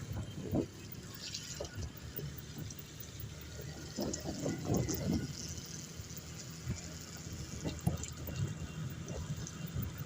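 Water splashing and rain noise on a flooded, rain-soaked road, with irregular low thumps throughout.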